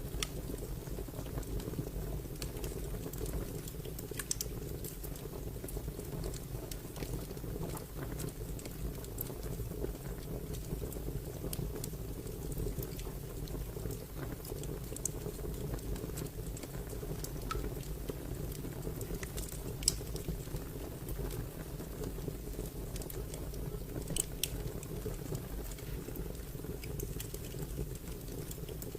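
Wood fire burning: a steady low rush of flames with scattered sharp crackles and pops, the loudest about 20 seconds in.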